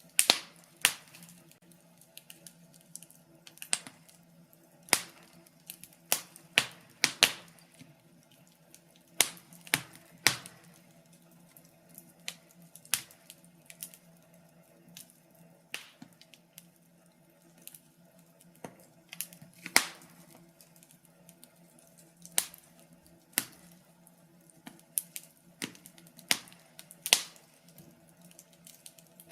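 Wood fire crackling in a fireplace: irregular sharp pops and snaps of burning logs, some loud and some faint, over a low steady background.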